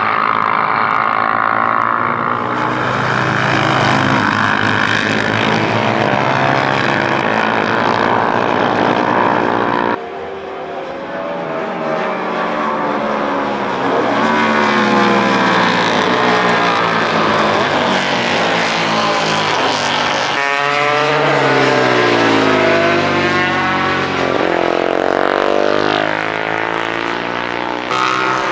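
Classic racing motorcycles at race speed, engines revving hard, pitch climbing as they accelerate and falling as they pass. The sound changes abruptly twice, about ten and twenty seconds in.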